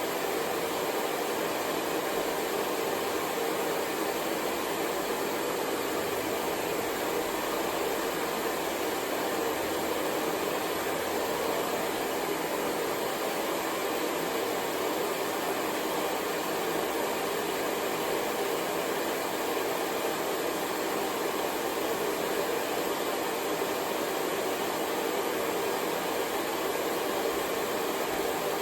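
Hair dryer running steadily: an unbroken rush of air, strongest in the low-middle range.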